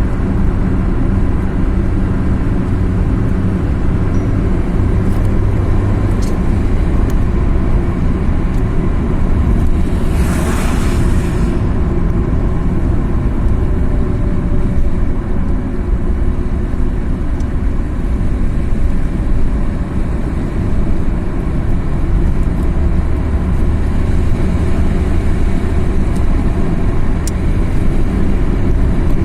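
Car driving: steady engine and road rumble, with a brief rushing hiss about ten seconds in.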